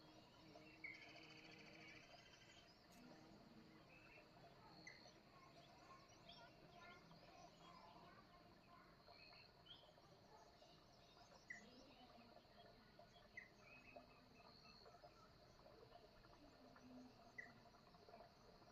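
Faint morning birdsong: many short chirps and calls from several birds scattered throughout, with a brief rapid trill about a second in.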